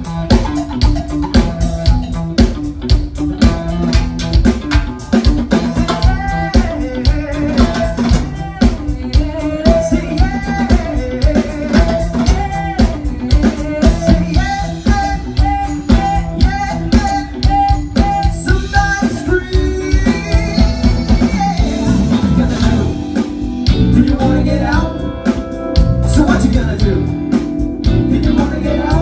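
A band playing a song: guitars, bass and drum kit keeping a steady beat, with a wavering lead melody over it.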